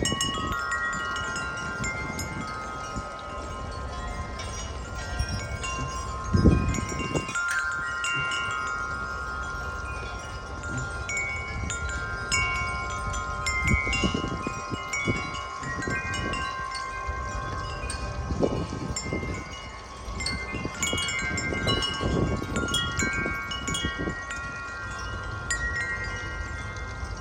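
Eight-tube metal wind chime ringing in gusty wind, its tubes struck irregularly so that the long notes overlap; its notes are not in the usual pentatonic scale. Wind gusts rumble on the microphone several times.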